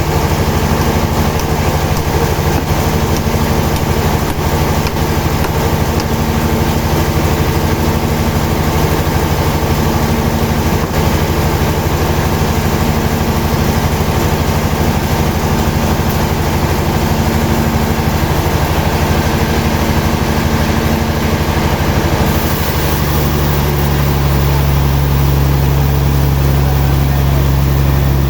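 Engine of sawmill machinery running steadily at a constant speed. About 22 seconds in, its tone shifts lower and heavier.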